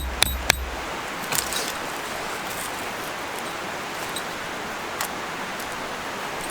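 Quick sharp blows of a tool striking wood, about four a second, ending about half a second in, followed by a steady outdoor hiss with a few faint clicks.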